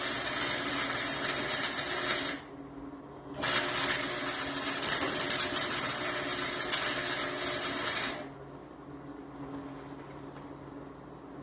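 A handheld power tool runs in two stretches, the first cut short about two seconds in and the second stopping about eight seconds in. After it stops, a quieter steady low hum remains.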